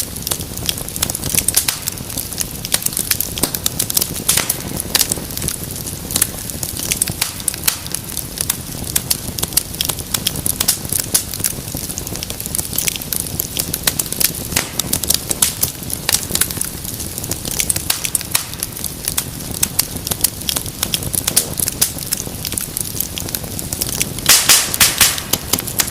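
Wood fire crackling, with many quick sharp pops over a steady low rush of flame. A louder cluster of pops comes near the end.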